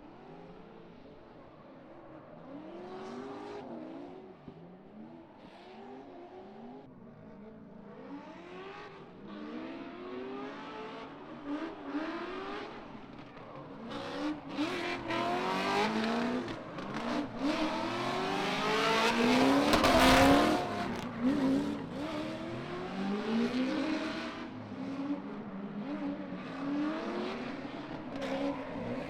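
Drift car engines revving hard again and again in quick rising sweeps, with tyres screeching. The sound grows louder from about halfway and is loudest about two-thirds through, as a car comes close.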